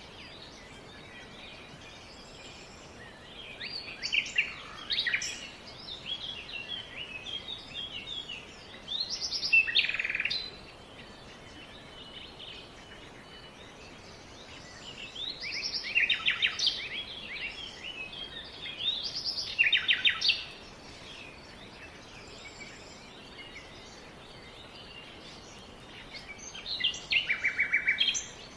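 Songbirds singing in short bursts of rapid, twittering phrases every few seconds, with a faint steady hiss between the phrases.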